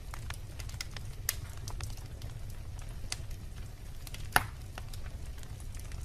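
Wood fire of burning logs in a fireplace crackling, with a steady low rumble and scattered sharp pops, the loudest about four and a half seconds in.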